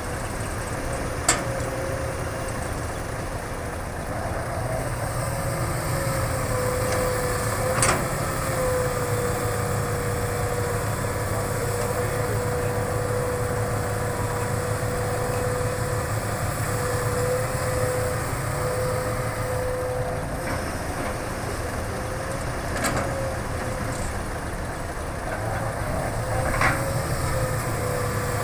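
Hitachi hydraulic excavator's diesel engine running steadily under working load, with a steady whine over the low rumble. A few sharp knocks come at scattered moments.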